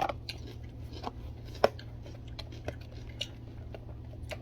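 Chewing a crunchy raw vegetable, with scattered short crunches and clicks and one sharper crunch about a second and a half in.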